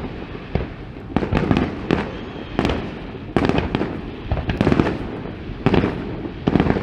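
Fireworks display: aerial shells bursting in quick succession, a run of sharp bangs, often two or three close together, every half second to a second.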